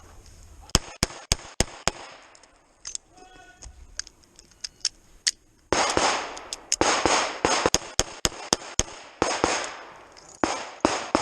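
Handgun shots fired in fast strings: five quick shots about a second in, a pause with a few scattered shots, then long rapid strings through the second half, each shot echoing.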